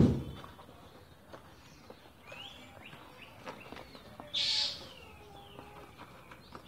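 Birds chirping in the background, short sliding calls, with a brief louder hiss about four and a half seconds in and a few faint clicks.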